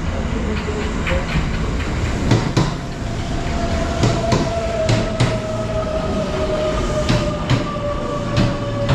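Kintetsu Ise-Shima Liner electric express train pulling in and slowing. Its wheels clack irregularly over rail joints under a steady rumble, and about two and a half seconds in a whine sets in that slowly falls in pitch.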